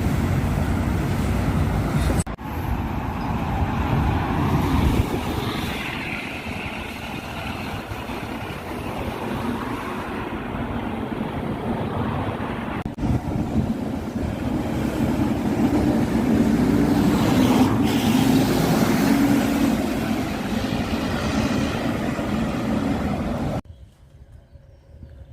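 Heavy vehicles running, with a steady engine rumble and road or rail noise, heard in several short clips joined by sudden cuts. Near the end it drops suddenly to a much quieter scene.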